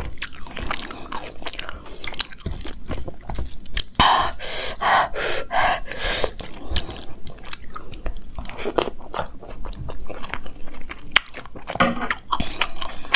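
Close-miked chewing of a mouthful of vegetable fried rice with Manchurian gravy: wet mouth clicks and smacks. A run of louder, noisier chews falls in the middle.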